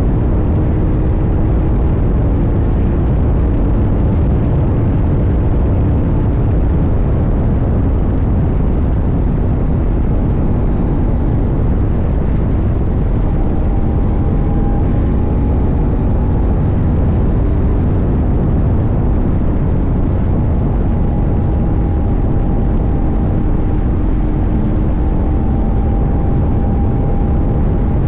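CFMoto 800NK's parallel-twin engine running at a fairly steady road speed, its pitch drifting only slightly, over a constant rumble of wind and road noise.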